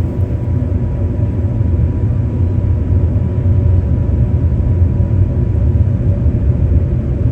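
Airbus A350-900 cabin noise at a window seat: a steady low rumble from the Rolls-Royce Trent XWB engines and airflow, with a thin steady tone above it.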